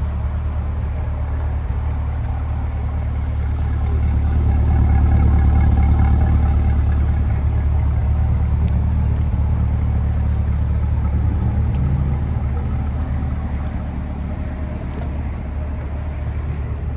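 2020 Corvette Stingray's 6.2-litre LT2 V8 idling steadily through its Z51 performance dual-mode exhaust, a low continuous drone that swells a little for several seconds near the middle.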